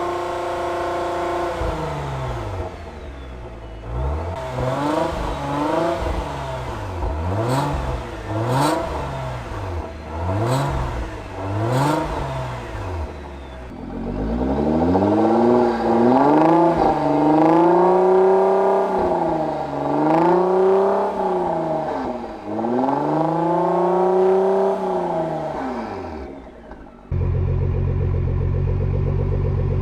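Nissan GT-R R35's twin-turbo V6 through an ArmyTrix valved stainless exhaust, revved over and over: first a run of quick blips with a few sharp pops, then longer, louder sweeps up and down. Near the end it cuts suddenly to a steady drone.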